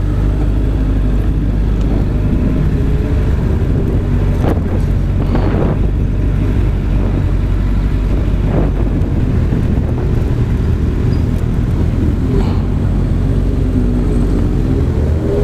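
Vehicle engine running with a steady, loud low rumble. Its pitch shifts up and down near the end as the throttle changes.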